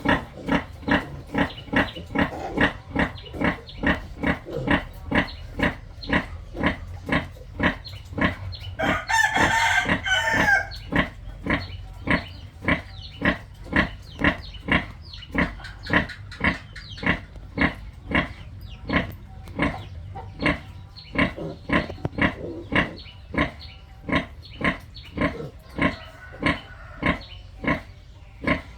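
Pigs grunting in a steady rhythm, about two short grunts a second, with a brief higher-pitched squeal about nine seconds in.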